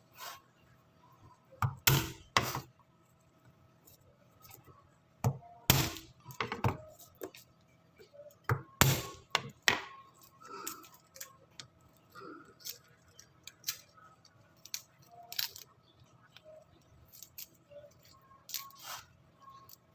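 Irregular sharp clicks and knocks of kitchen utensils and dishes handled during food preparation, with the loudest clusters about two, six and nine seconds in.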